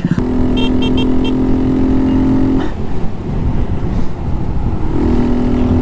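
Honda Monkey 125's single-cylinder engine, breathing through a Chimera short ram intake, running at a steady cruising speed under low rumbling road noise. Its note drops out for a couple of seconds in the middle and then comes back.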